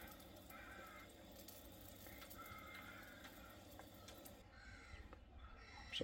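Near silence: a quiet outdoor background with a few faint, distant bird calls.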